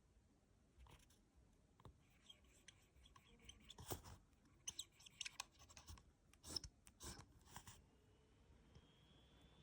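Lamy 2000 fountain pen's medium nib writing on paper: faint, irregular scratches and taps of the nib in short strokes. The pen suffers from poor ink flow, hard starts and skipping.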